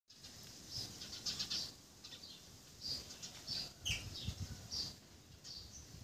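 Bird chirping: short high notes repeated every half-second to a second, one sliding down in pitch about four seconds in, over a low rumble.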